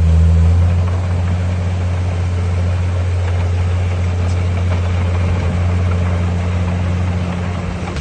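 Diesel engine of heavy earthmoving machinery running at a steady speed, a low even drone.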